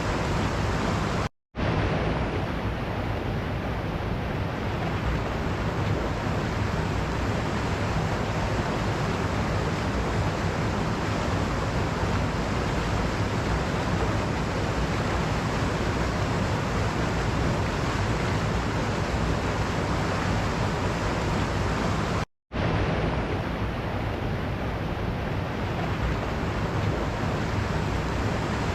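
Waterfall rushing with a steady, dense roar of falling water, broken twice by a split-second gap of silence.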